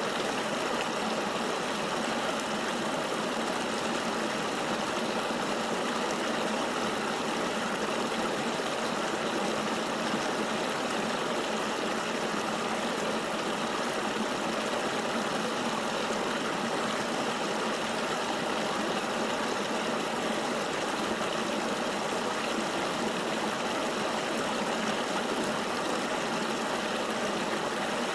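Flowing river water: a steady, even rush with no separate splashes or changes.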